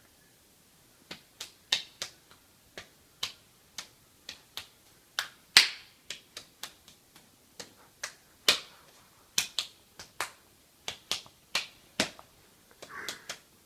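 Single sharp hand claps at uneven intervals, roughly two a second, some much louder than others.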